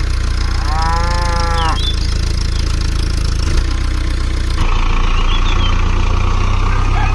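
A cow moos once, about a second long, near the start. It sounds over the steady low hum of a small motor, and a second steady machine sound joins partway through.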